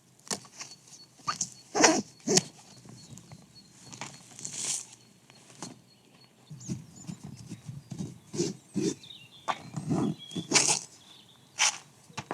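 A run of irregular knocks, clicks and rustles, like things being handled and moved about. The sharpest knocks come about two seconds in and again near ten and a half seconds.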